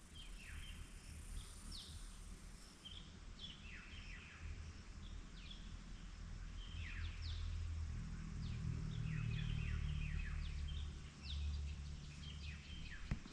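Several birds chirping, with short downward-sliding calls repeating every second or so, over a low rumble that grows louder from about seven to eleven seconds in.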